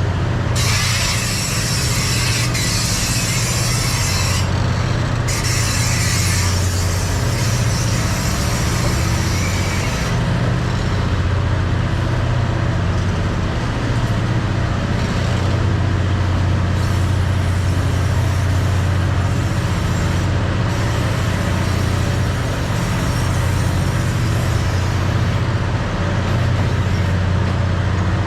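A train running along the track: a steady low engine drone with rail and wheel noise, and a higher hiss that comes and goes during the first ten seconds or so.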